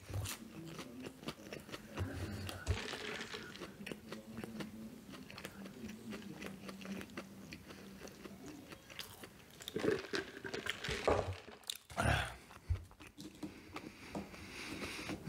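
A person chewing and biting fast food close to the microphone, with wet mouth sounds and small crunches, a few louder bites near the end.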